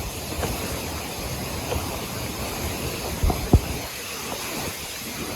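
Steady rushing noise of a mountain stream mixed with wind buffeting the microphone, with a couple of soft thumps about three and a half seconds in.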